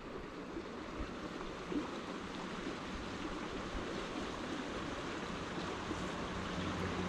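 Steady rush of water flowing in a small creek, slowly getting louder; a low steady hum comes in near the end.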